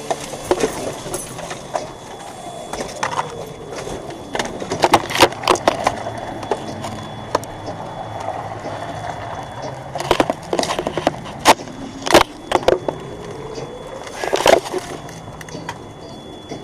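Steady vehicle road noise broken by irregular clusters of sharp knocks and rattles, with a slow rise and fall in pitch underneath.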